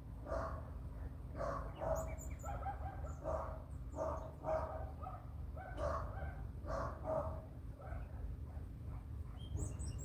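Short animal calls repeated about once or twice a second, with a few brief high bird chirps between them, over a steady low rumble.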